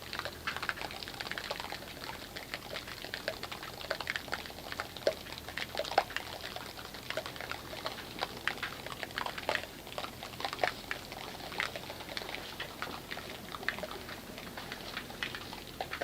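Thick foam from a foam cannon, made from Dove body wash, crackling faintly as its tiny bubbles pop: an irregular patter of small clicks.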